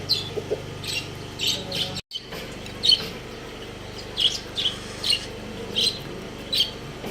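Small pet birds chirping: short, high chirps repeating every half second or so, over a steady low hum. The sound drops out for an instant about two seconds in.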